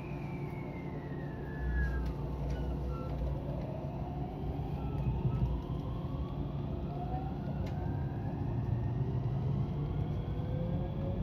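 JR West 223 series 2000 electric train accelerating: the inverter-driven traction motors whine in several tones that climb steadily in pitch over a low running rumble.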